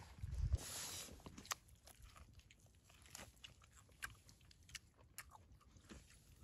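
Eating grilled chicken: scattered bites, crunches and chewing sounds. A short, louder rustling burst comes in the first second.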